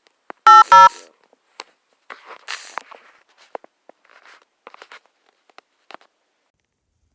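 Two phone keypad touch-tone beeps, a third of a second apart, as the last digits of a phone number are dialed. Faint scattered clicks follow.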